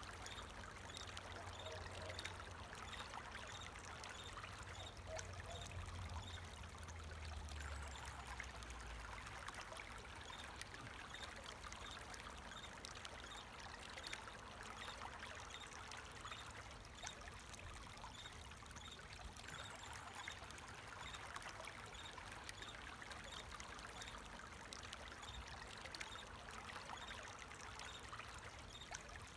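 Flowing water trickling steadily, with crickets chirping in a regular high-pitched pulse. A low rumble sits under it for the first several seconds.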